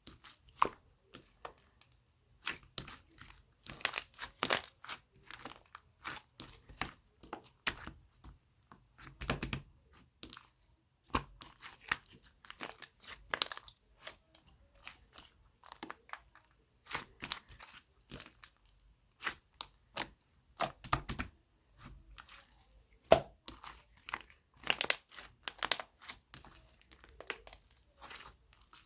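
Firm, stiff slime being squeezed, stretched and pressed by hand, giving irregular sharp crackling and popping clicks.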